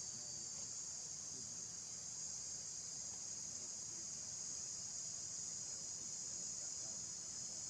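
Steady, unbroken high-pitched chorus of insects, crickets or cicadas, trilling without pause.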